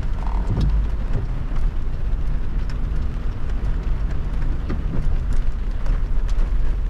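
A car driving in heavy rain: a steady low rumble of tyres on the wet road, with scattered ticks of raindrops striking the car.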